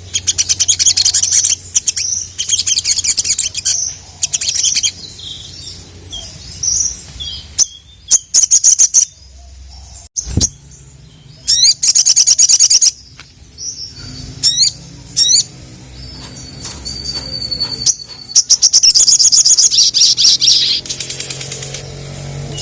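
Sogon (sogok ontong sunbird) singing: bursts of very rapid, high-pitched chattering trills with short gaps between them, the excited full song kept to provoke rival sogons into answering.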